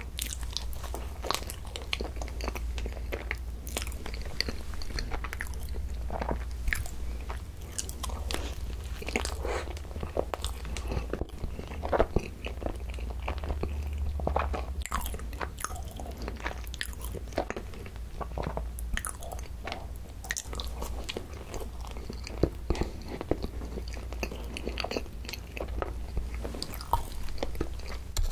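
Close-miked biting and chewing of a soft cream-filled bun, a steady run of small mouth clicks and smacks.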